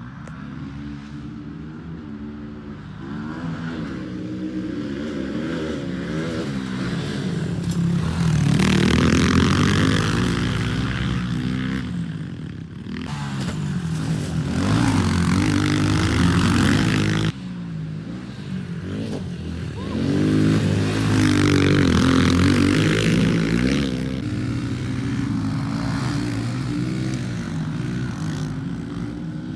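Pit bike engine revving up and down as it is ridden round a dirt track, its pitch rising and falling with each throttle change, growing louder three times and breaking off abruptly about halfway through.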